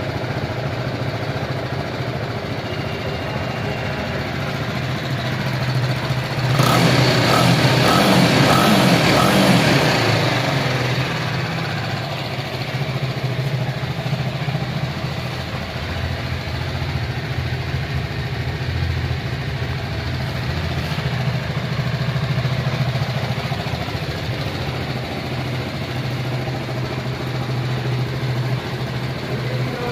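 BMW G310's 313 cc single-cylinder engine running at a steady idle, with a louder stretch of about three seconds roughly a quarter of the way in.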